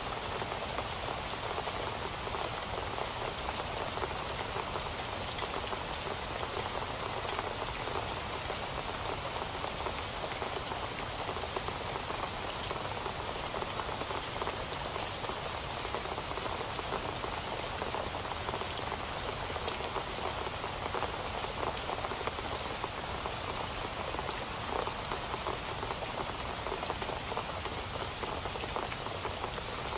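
Steady rain falling and pattering on a surface, an even hiss of many small drop impacts with no thunder.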